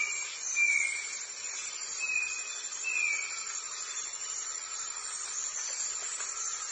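Steady high-pitched insect chorus, with four short, high, slightly falling whistle-like calls in the first three seconds.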